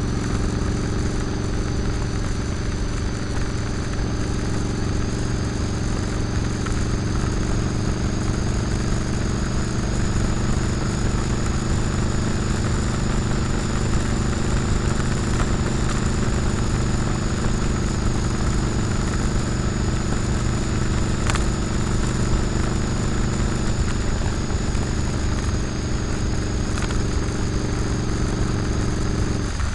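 Motorcycle engine running at a steady cruising speed under an even rushing noise of wind.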